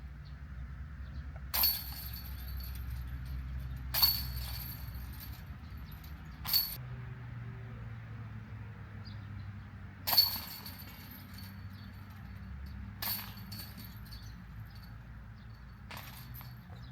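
Disc golf putts striking the hanging chains of a metal basket: six sharp metallic clinks with a brief jingle, a few seconds apart.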